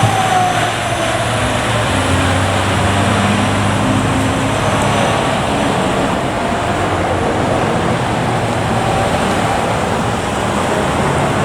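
Fire ladder truck driving by: a siren wail falls away in the first second or so, then a steady low engine hum and road noise run on.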